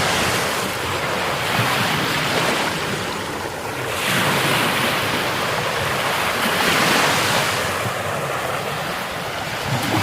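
Heavy sea surf breaking and washing up a beach, swelling to a loud peak about every four to five seconds.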